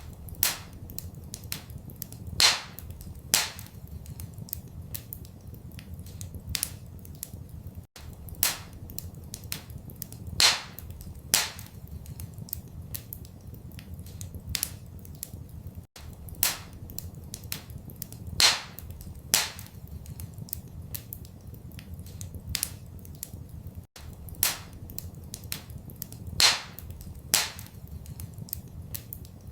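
A wood fire crackling in a fireplace: a steady run of small snaps and sharper pops over a low steady rumble, with a couple of loud pops every few seconds. The same pattern repeats every eight seconds, a short recording looped.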